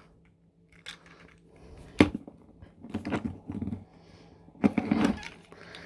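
Plastic clicks and taps from a small Transformers Cyberworld Bumblebee toy being handled and folded, its hinged parts collapsing as the hood is lifted, with one sharp click about two seconds in.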